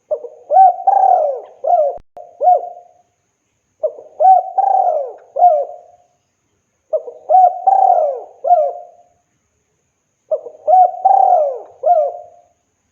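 Spotted dove (tekukur) cooing: four repeated call phrases about three seconds apart, each a short run of several coo notes. It is the male's song, calling a female.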